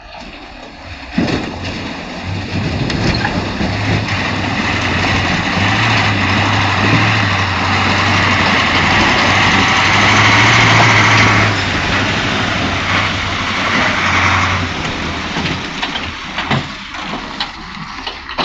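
Heavy truck engine working hard under load, building to its loudest a little past the middle and easing off near the end, with scattered knocks.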